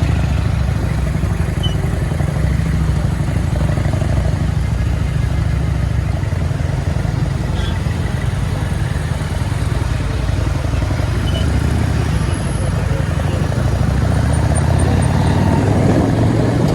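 Motorcycle riding along a highway: steady engine and road noise, a constant low rumble.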